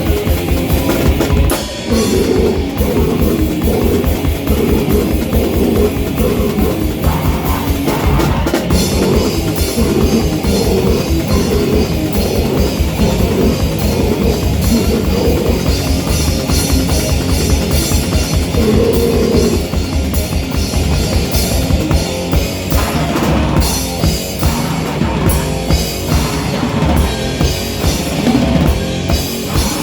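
Live rock band playing loud and fast, with drums driving a rapid kick-drum pulse under thick, distorted instruments.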